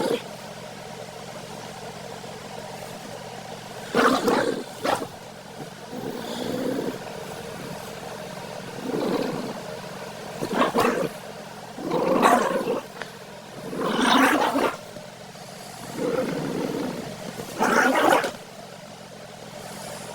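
A terrier dog making short vocal sounds, about nine of them and each under a second, spaced a second or two apart.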